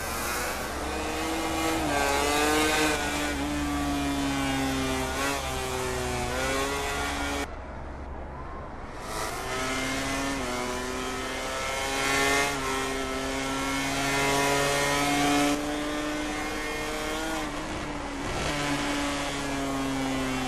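MotoGP racing motorcycle engines at high revs, the pitch climbing and dropping as the rider works through the gears. The engine note dips sharply about seven seconds in, then picks up again.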